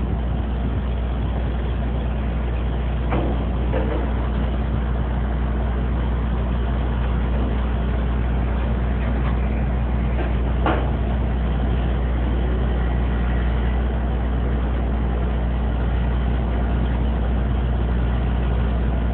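Truck engine running steadily at an even pitch while the grapple works, with a couple of faint knocks.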